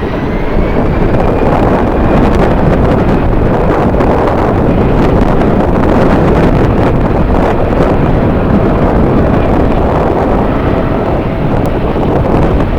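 Strong gusting wind buffeting the microphone, a loud, continuous rumble that rises and falls in level.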